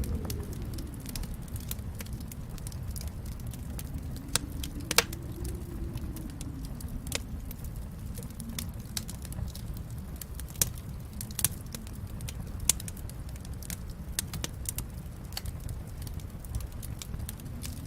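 Fireplace fire crackling: irregular sharp pops over a low steady rumble of the flames, with a few louder pops, the loudest about five seconds in.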